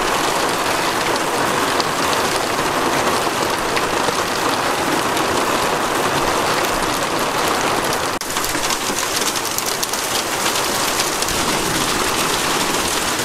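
Heavy rain falling steadily on a paved road and grass: a dense hiss of drops, with the drop patter becoming crisper about eight seconds in.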